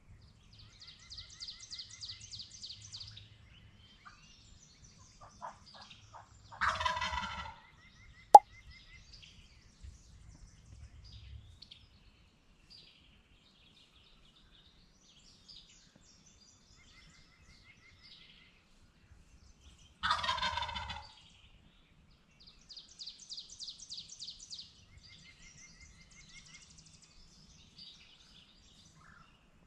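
Wild turkey gobbling twice, each gobble about a second long and some thirteen seconds apart, with small songbirds trilling in between. A single sharp click just after the first gobble.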